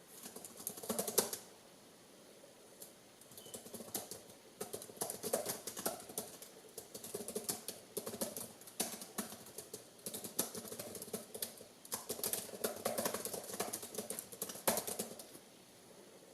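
Manually twisted gyroscope making its rapid, irregular clicking rattle, the twisting noise it makes while spinning, in a short burst about a second in and then a long run of several seconds that stops shortly before the end.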